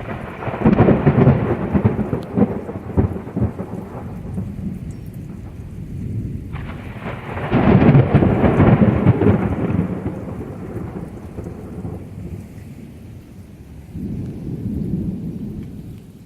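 Thunder from nearby lightning strikes over steady rain. A loud rumbling peal begins about half a second in, a second one breaks suddenly at about six and a half seconds and rolls on for several seconds, and a softer rumble comes near the end.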